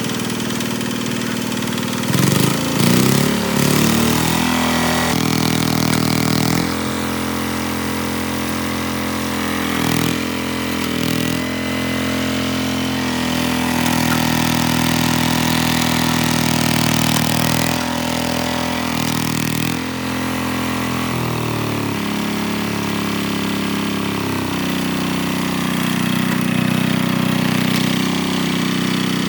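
Hinota HG Gold 155 DI tractor's diesel engine running, its pitch swinging up and down in a short burst of revving about two to four seconds in, then shifting up and down in steps several more times as the throttle changes.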